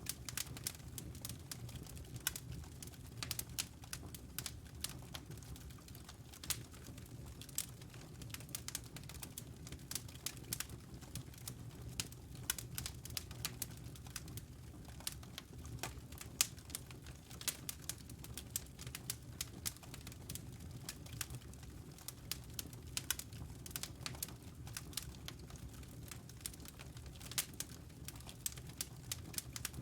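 Wood fire crackling in a fireplace: irregular sharp pops and snaps, many a second, over a steady low hum.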